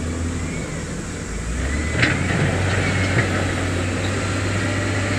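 Heavy diesel earthmoving machinery running with a steady deep engine drone, and a single sharp clank about two seconds in.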